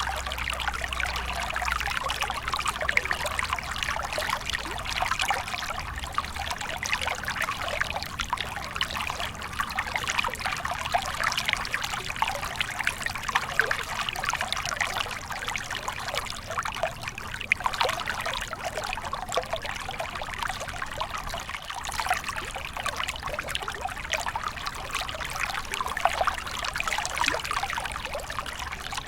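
Small stream of water flowing and trickling steadily, with continuous bubbling and splashing.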